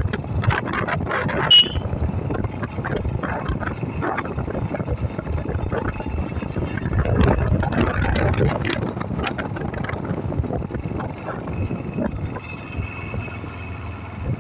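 Yamaha SR400 single-cylinder motorcycle engine running on the move, with wind buffeting the microphone. A single short, sharp click about a second and a half in.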